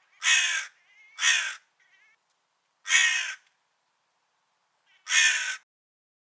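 Crow cawing: four loud, harsh caws of about half a second each, spaced unevenly, with a faint short call between the second and third.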